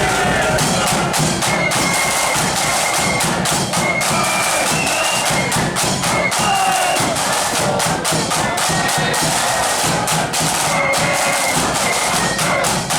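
Marching flute band playing: a high flute melody over rapid snare drumming and a bass drum.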